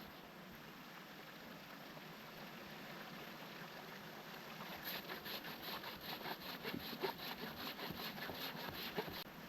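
Hand saw cutting wood: a steady run of quick strokes, about four a second, starts about five seconds in and stops shortly before the end, over a faint background hiss.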